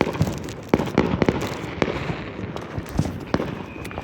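Snap-pop bang snaps cracking: a string of sharp, irregular pops, several close together about a second in and more later. A thin, steady high tone comes in near the end.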